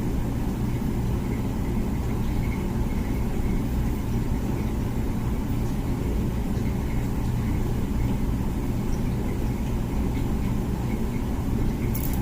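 Comfee dishwasher running mid-cycle: a steady low rumble from its pump and motor, with a couple of faint clicks near the end.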